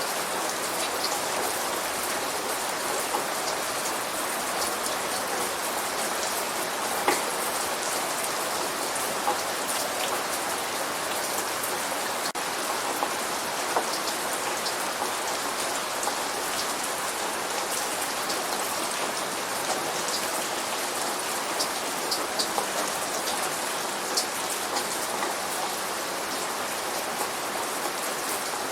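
Light rain falling steadily, an even patter with many individual drops ticking sharply here and there. No thunder is heard.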